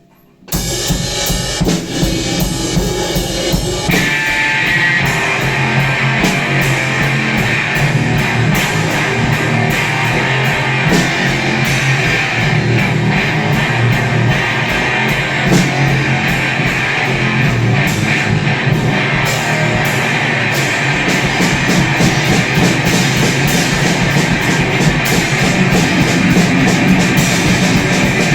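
Loud grind/noise rock: distorted electric guitar and a drum kit playing together, with dense cymbal and drum hits throughout. It comes in abruptly about half a second in, after a brief quiet gap.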